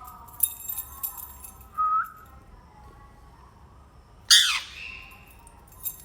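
Ringneck parrot calls: a short rising chirp about two seconds in and a loud, shrill squawk about four seconds in, with faint clicks between.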